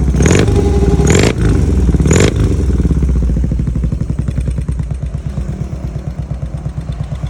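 BMW R100 boxer-twin engine through a full titanium exhaust: three short throttle blips in the first couple of seconds, then it drops back to a steady, pulsing idle.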